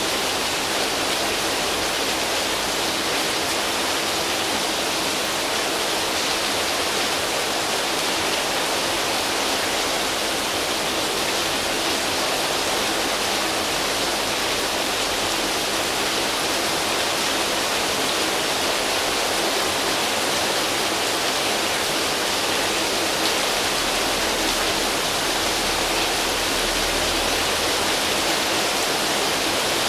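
Steady heavy rain, a dense even hiss of drops on leaves and a tin roof.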